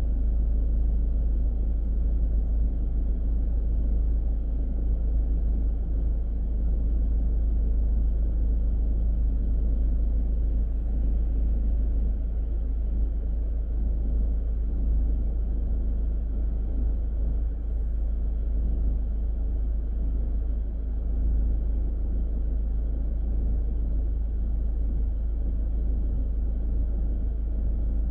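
Car driving at steady speed: a continuous low rumble of road and engine noise with tyre hiss and no distinct events.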